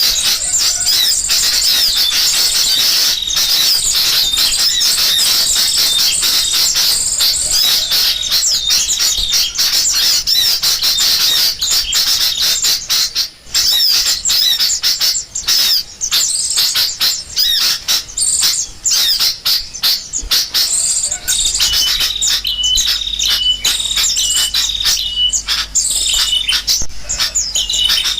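Dense, loud chorus of small birds chirping rapidly, a bird-trapping lure recording of sooty-headed bulbuls (kutilang) mixed with small songbirds. From about 21 seconds in, one short high note repeats about twice a second over the chatter.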